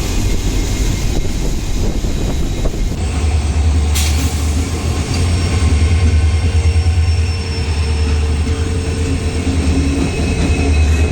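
Passenger train running, a heavy steady low rumble from the coach with thin high whining tones over it, like wheels squealing on the curves of a ghat line. The sound changes abruptly about three seconds in.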